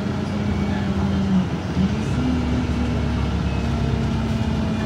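Cummins ISB4.5 four-cylinder diesel engine of an Alexander Dennis Enviro 200 MMC bus running under way. The engine note dips about a second and a half in, comes back higher about two seconds in, then eases back down.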